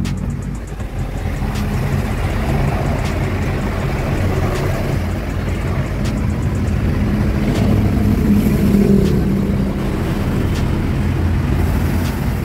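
A steady engine hum under outdoor street noise, with faint ticks every second or two.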